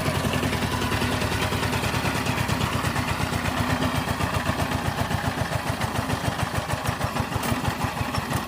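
Diesel engine running at a steady idle, a regular chugging beat of several pulses a second, just after starting.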